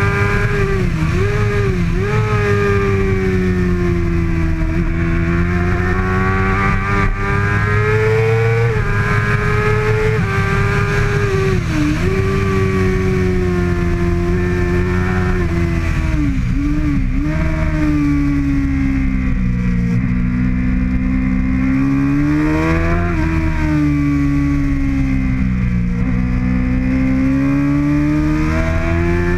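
2013 Kawasaki ZX-6R's 636 cc inline-four engine running hard at racing revs, its pitch climbing and falling through the gears with several quick sharp dips as it is shifted.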